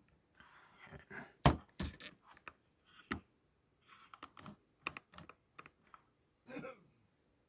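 Irregular sharp clicks and knocks of plastic and metal parts of a Skyworth LED TV being handled and pried open by hand, after its screws are out, with a short scrape early on; the loudest knock comes about one and a half seconds in.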